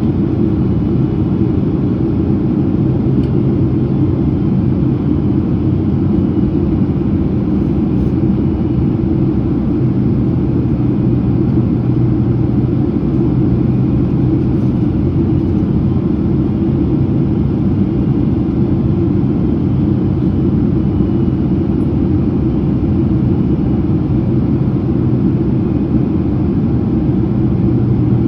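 Steady cabin noise of a Boeing 767-300ER in descent: a deep, even rumble of engines and airflow with a steady low hum.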